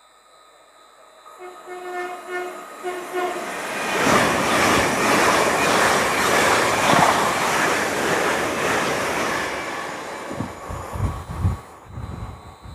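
Train sounding its horn as it approaches, then passing through the station at speed without stopping, a loud rushing roar of wheels on rail that builds and fades. A few low thumps near the end.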